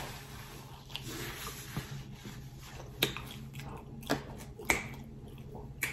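Mouth smacks and clicks while chewing food: about six sharp, brief clicks spaced roughly a second apart over a faint steady low hum.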